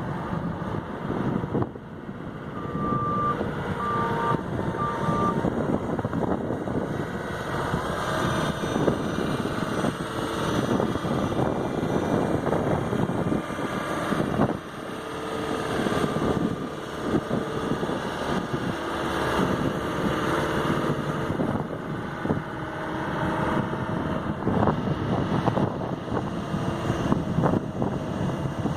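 2006 Kobelco ED190 excavator running, with steady machine noise and three short high beeps about three to five seconds in, like a travel or backup alarm.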